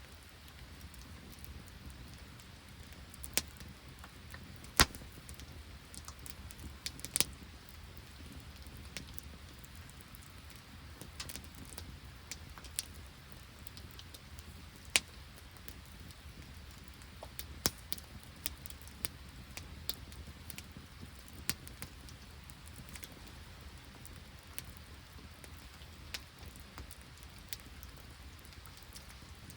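Irregular drips of rain and sleet ticking, with an occasional sharper pop, over a faint steady hiss.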